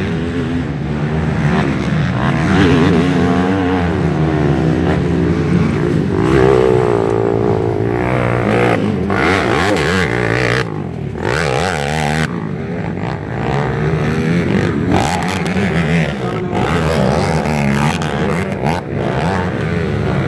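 Several motocross dirt bike engines running and revving, their pitch rising and falling over one another.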